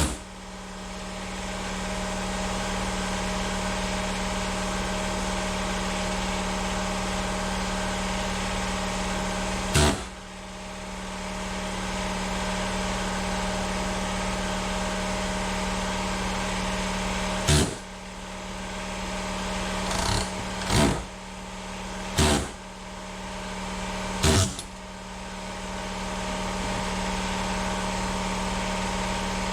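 A steady machine hum runs throughout, broken by six short sharp knocks: one about a third of the way in, then a cluster of five over the later part.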